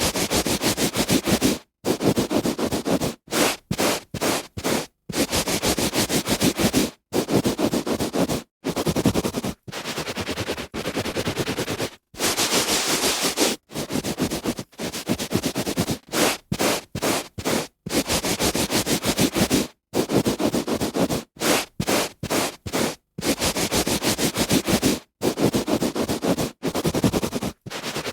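A hand rubbing back and forth on a carpet, a scratchy brushing noise in strokes that run from a fraction of a second to about two seconds. The strokes are broken by short, abrupt gaps of silence.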